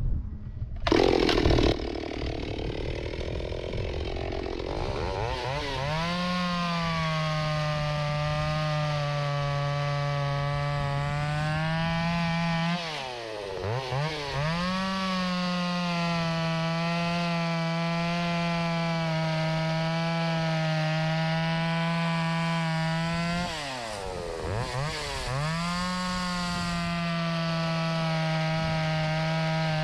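Stihl 028 Wood Boss two-stroke chainsaw, its muffler freshly welded, cutting fir under full throttle. After a brief loud burst about a second in, the engine climbs to a steady high note under load. The note sags and picks back up twice, a little before halfway and about three-quarters through.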